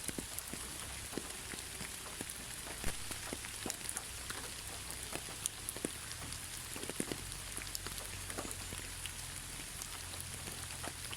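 Steady rain with many individual drops tapping sharply on a surface.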